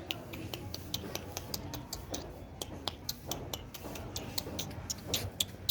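Shih tzu puppies' claws clicking and tapping irregularly on a hard floor, several sharp clicks a second.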